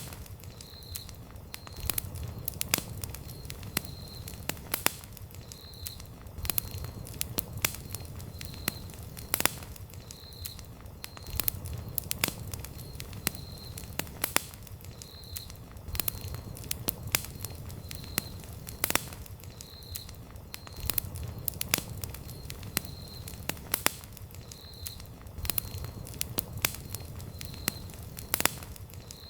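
Wood campfire burning, with frequent sharp, irregular crackles and pops over a low steady rumble. A faint high chirp repeats about once a second in the background.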